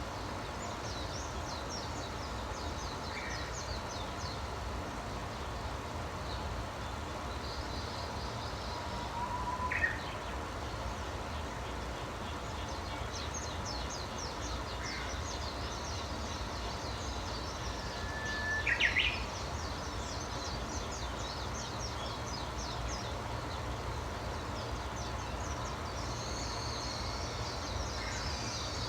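Wild birds chirping and calling: many faint high twitters and trills, with a few short, louder calls, the loudest about ten seconds in and near the middle, over a steady low background rumble.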